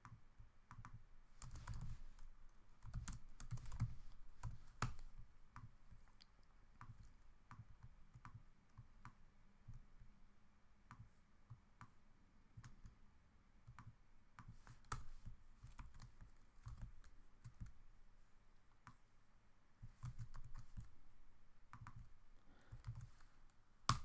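Computer keyboard and mouse clicks: scattered single taps, with busier runs of clicking a couple of seconds in and again near the end.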